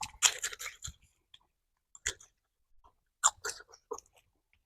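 Close-up crunching and chewing of roasted cicadas: several short, crisp crunchy bites with silent pauses between them.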